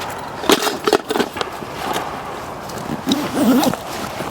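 Rustling and clicking of camping kit being handled, with a few sharp knocks in the first second or so.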